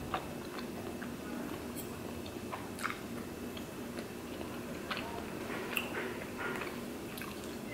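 Close-miked chewing of chewy Korean rice cakes (tteokbokki) with melted cheese, with a few soft, brief mouth clicks scattered through it.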